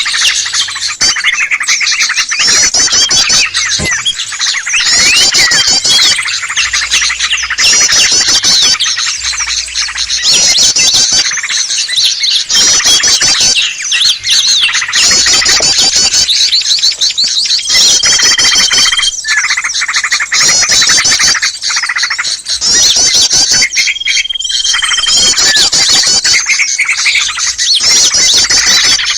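A dense, noisy chorus of small songbirds chirping, trilling and squawking together: a bird-trapping lure call for drawing in small birds. The calls come in bursts of a second or two with brief lulls, and a steady high whistle is held for about a second twice in the second half.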